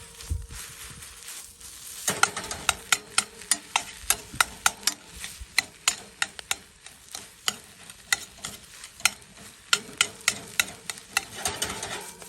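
Fried rice being stir-fried in a pan over a campfire: a cooking utensil knocks and scrapes against the pan several times a second over a steady sizzle, with a quieter stretch of sizzling alone in the first couple of seconds.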